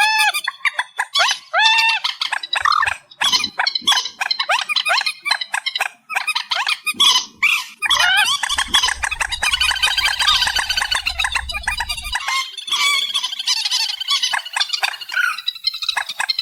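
Amplified recording of the marsh bird known in Vietnam as trích ré calling over and over: short arching notes mixed with rapid, harsh clicking chatter. About halfway through, a dense buzzy chatter runs for around four seconds, with a low rumble under it.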